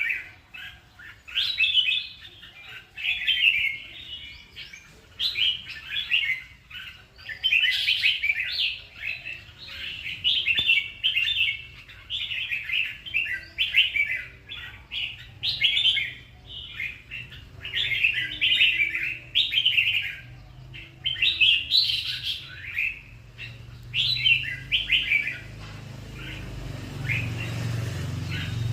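Red-whiskered bulbul singing: short, rapid warbling phrases repeated every second or two with brief pauses between. A low hum grows louder in the background near the end.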